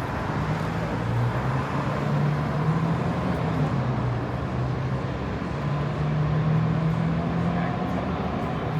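City street traffic with a motor vehicle's engine running close by, a low hum that swells twice.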